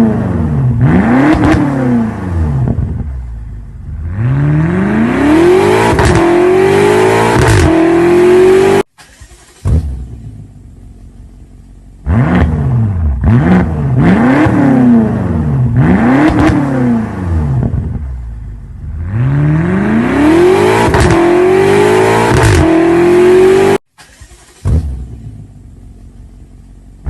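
BMW X5 M (F85)'s twin-turbo V8 being revved. It gives a few quick rev blips, then climbs and holds at high revs before cutting off abruptly and dropping back to a quieter idle. The whole sequence happens twice.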